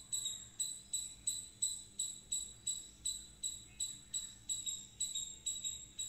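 A small bird repeating a single high-pitched call note over and over, about three times a second, each note the same pitch and sharply struck.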